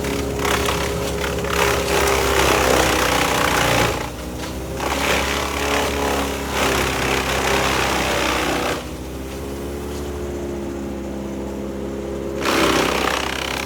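A petrol-engined tree-work machine runs steadily, with repeated bouts of loud cutting or grinding as it works into wood. There is a lull of a few seconds about two-thirds of the way through, when only the engine is heard.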